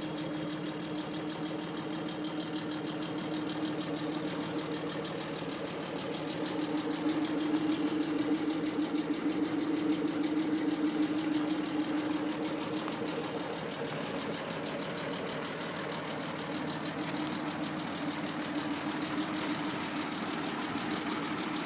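1941 Dodge WC13's flathead straight-six idling steadily, a little louder for a few seconds in the middle, running smoothly just after its first road trip.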